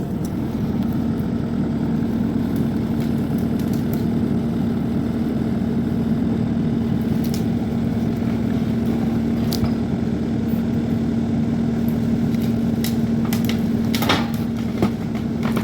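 Skid steer engine running steadily with a constant hum, with a few brief sharp knocks or snaps over it.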